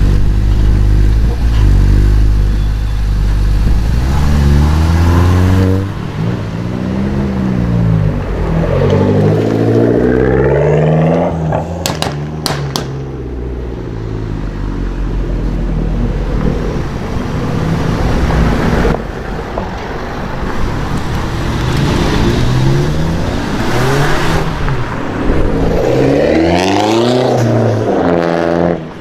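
Sports cars with aftermarket exhausts accelerating away one after another, their engine pitch rising and falling again and again as they rev through the gears. A few sharp cracks come from the exhausts about halfway through.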